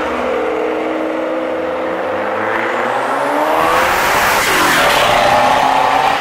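Ferrari 612 Scaglietti's V12 engine pulling past at low revs, then accelerating hard from about three seconds in, its note rising and getting louder.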